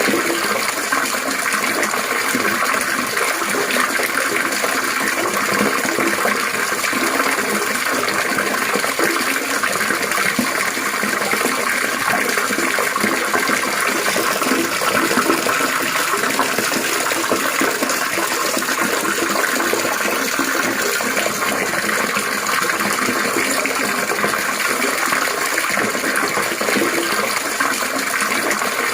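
Water trickling and splashing continuously, an even, steady babbling with no breaks.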